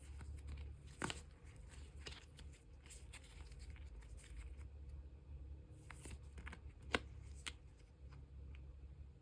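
Photocards and plastic sleeves being handled: soft rustling of plastic with scattered light clicks and taps, the sharpest about a second in and near seven seconds.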